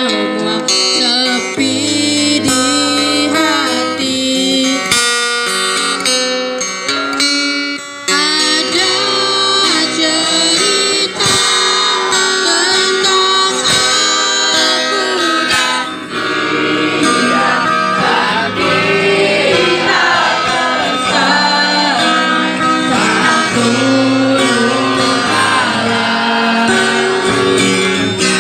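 A woman singing a song to guitar accompaniment.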